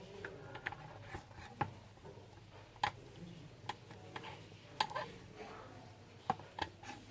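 Scattered light clicks and taps of hands handling and pressing a plastic microwave control panel while a new self-adhesive membrane keypad is stuck onto it, a few sharper clicks standing out.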